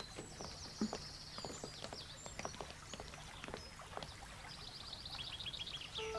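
Small birds chirping and twittering, faint, with a quick run of repeated chirps near the end.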